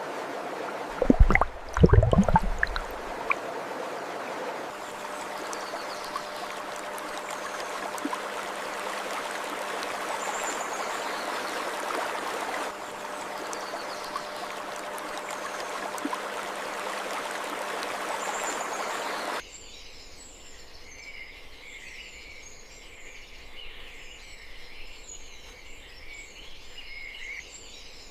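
Flowing stream water, a steady rushing, with a few loud low thumps about a second in. About two-thirds of the way through it cuts off suddenly to a quieter bed of small birds chirping.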